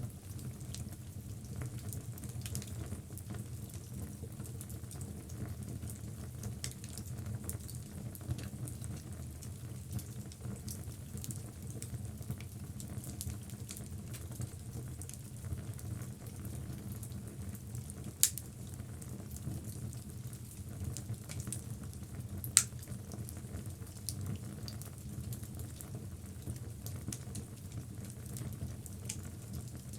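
Wood logs burning in a fireplace: a steady low rumble of flames with frequent small crackles, and two sharp louder pops about four seconds apart past the middle.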